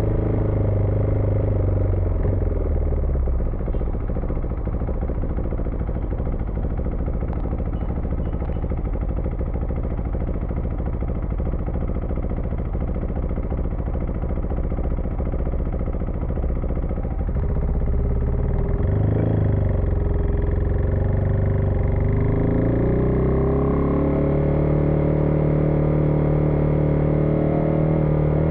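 Husqvarna Vitpilen 401's single-cylinder engine running while riding. Its note goes rougher for a while, then dips and climbs in pitch about two-thirds of the way through and holds a higher, steady note.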